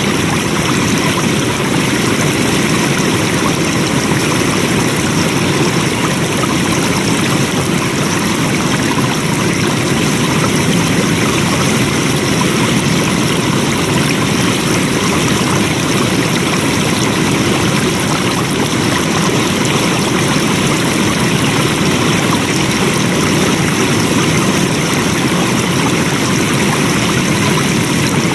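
Flowing water, a steady rushing stream.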